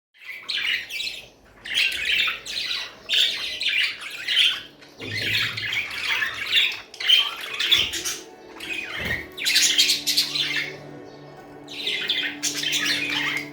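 Several budgerigars chattering and warbling together in scratchy bursts of a second or two, with short gaps between them and a brief lull about eleven seconds in. A low, steady hum comes in underneath about ten seconds in.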